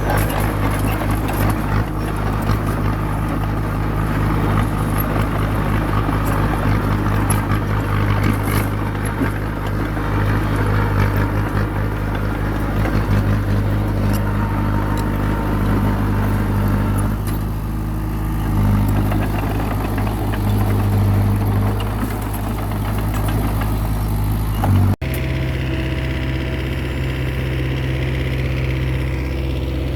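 Diesel engine of a small Komatsu crawler bulldozer running steadily under work. About 25 seconds in, the sound cuts abruptly to a steadier engine hum.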